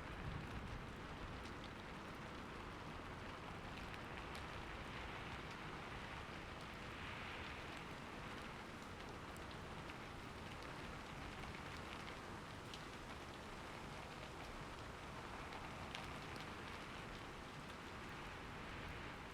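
Steady rain falling and pattering on surfaces, with scattered sharper drops.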